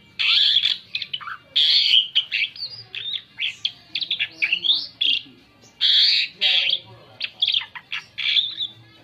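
Asian pied starling (jalak suren) singing a varied song. Loud harsh rasping bursts alternate with quick whistled notes that slur up and down, and with short clicks.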